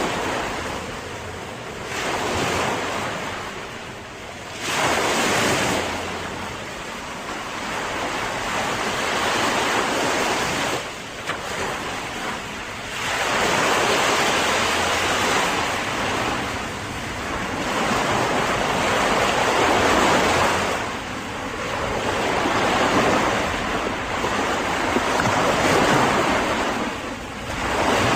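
Ocean waves breaking and washing on the shore, the surf rising and falling every few seconds, with wind buffeting the microphone.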